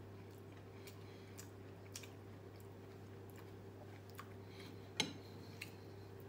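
A person chewing a mouthful of rice and fried chicken, with faint wet mouth clicks and small ticks, and one sharper click about five seconds in. A steady low hum runs underneath.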